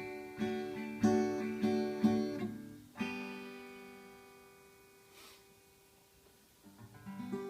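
Acoustic guitar strumming the closing chords of a folk song; a last chord about three seconds in rings out and slowly fades away.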